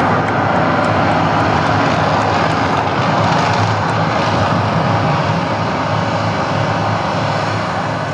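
The Mirage volcano attraction's steady, loud roar and rumble, easing off near the end.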